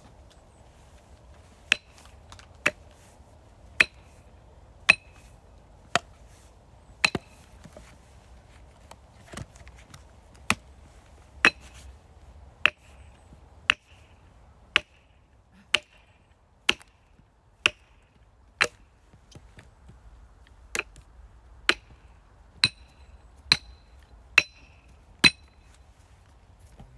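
Firewood being chopped by hand: sharp striking blows about once a second, each with a short metallic ring, with two brief pauses.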